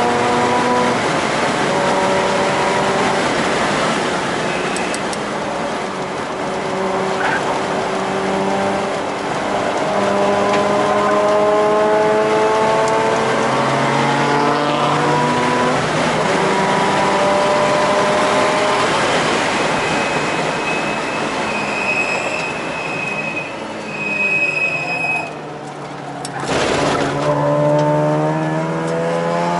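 Inside the cabin, a Mazda RX-8's rotary engine pulls hard around a race track, its note climbing slowly and dropping back at a gear change about halfway. Near the end a thin tyre squeal comes through a corner, then the engine drops away briefly. A sharp noise follows, and the engine note climbs again from low.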